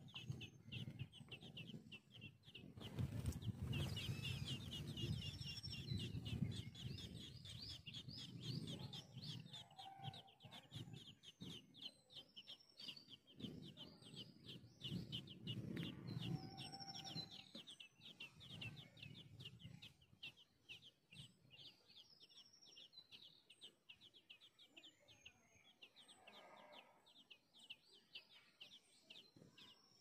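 Birds chirping: a rapid, steady run of short high chirps with a few separate higher calls, over a low, uneven rustle that dies down after about 18 seconds.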